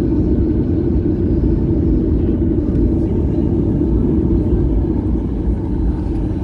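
Steady low rumble of an airliner cabin with the engines running as the plane taxis after landing.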